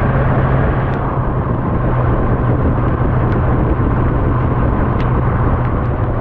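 Kawasaki Z1000SX motorcycle cruising at a steady speed: an even engine drone under heavy wind rush.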